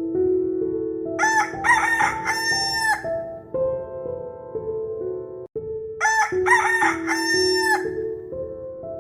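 A bird crowing twice, each crow one long call of about two seconds in several pitch steps, over background music of held keyboard notes.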